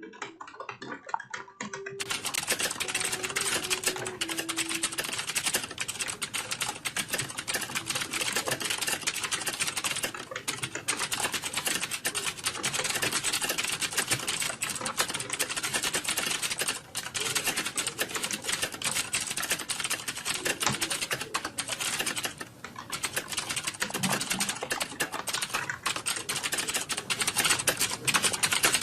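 Fast, continuous typing on a computer keyboard: a dense run of rapid keystrokes with a few brief pauses. The typing is sparser for the first couple of seconds before settling into a steady pace.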